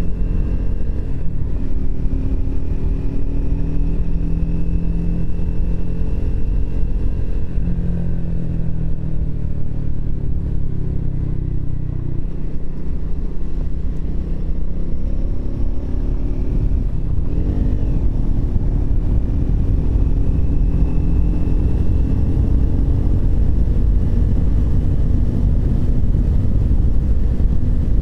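Triumph Speed 400's single-cylinder engine on the move, its note falling as the bike slows through the first dozen seconds, then rising steadily as it accelerates again over the last ten seconds. Heavy wind rumble on the microphone runs underneath.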